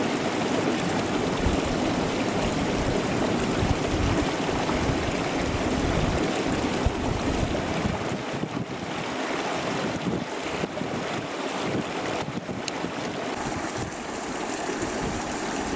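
Steady rushing of a stream's running water, with wind buffeting the microphone in irregular low gusts.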